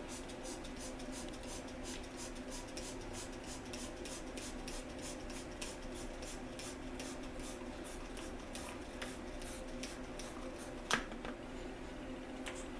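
Steady low hum with a fast, even ticking over it, about four ticks a second, and one sharp tap about eleven seconds in.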